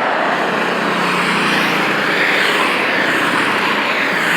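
A semi truck passing at highway speed: steady tyre and road noise with a low engine drone, no horn.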